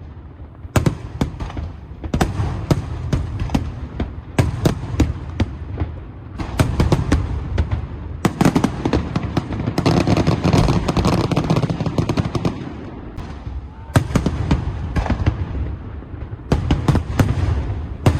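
Fireworks display: aerial shells bursting in rapid, irregular bangs with crackling and rumble, densest in a sustained barrage around the middle.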